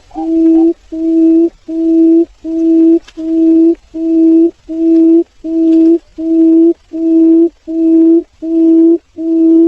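Barred buttonquail calling: a long, even series of low hoots on one pitch, about three notes every two seconds, each note swelling in loudness.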